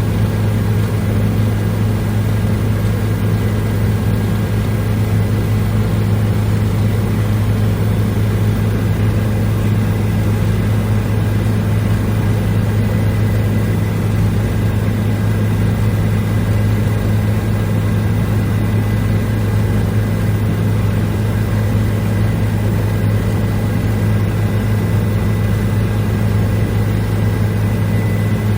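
Helicopter in steady flight: a loud, even low drone of rotor and engine, with a faint high whine held on one pitch.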